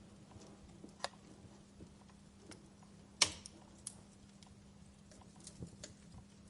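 Wood fire in a fireplace crackling: scattered sharp pops and ticks, the loudest about three seconds in, over a faint steady hum.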